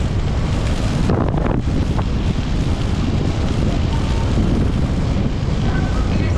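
Steady wind buffeting on the microphone of a moving motorcycle, with the Honda TMX 125 Alpha's single-cylinder engine running under it.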